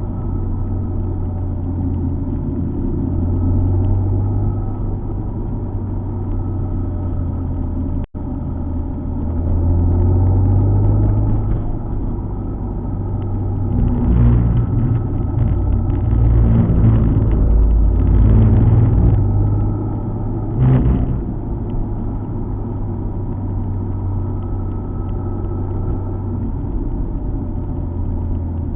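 Alfa Romeo 147 GTA's 3.2-litre V6 running under way, with tyre and road noise: a steady low rumble that swells louder a few times past the middle. A brief dropout cuts the sound about a third of the way in.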